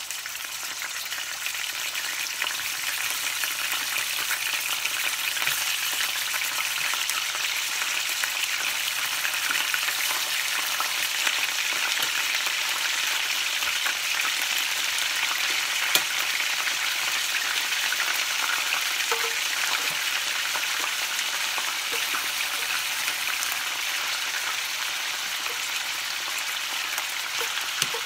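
Soy-marinated beef frying in olive oil in a stainless steel pan, a steady sizzle that grows a little louder over the first couple of seconds, with an occasional sharp tick.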